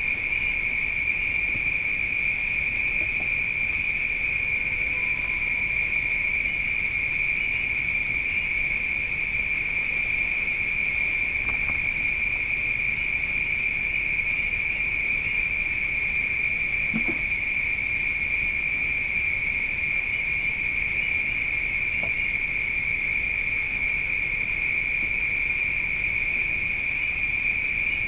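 Steady chorus of night insects such as crickets, two continuous high-pitched trills at different pitches running without a break.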